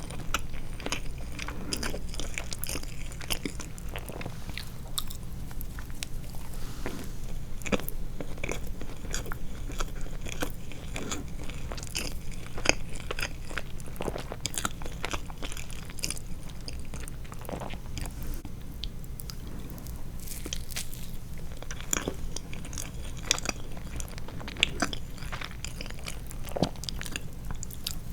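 Close-miked eating of soft sweets: irregular wet chewing, lip smacks and small mouth clicks over a steady low hum.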